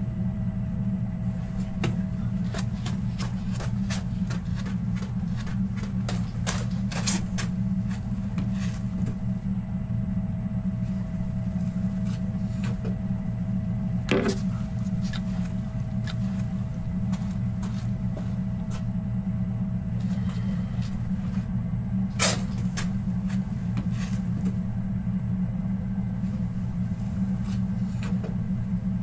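Steady low hum, like a rumbling room tone, with many light scattered clicks and ticks. Two louder sharp taps stand out, one about halfway through and one about three-quarters through.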